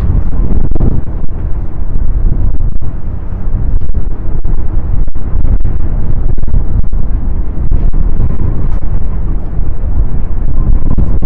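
Strong gale-force wind buffeting the microphone: a loud, continuous low rumble that swells and dips with the gusts.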